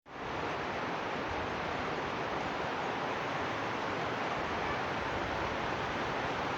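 Heavy rain falling, a dense, steady hiss that comes in just after a cut at the start.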